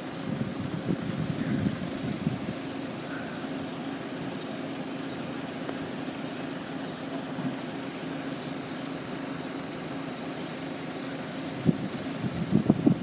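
A steady low hum from a standing vehicle, like an engine idling. Uneven low rumbles come and go about a second in and again near the end.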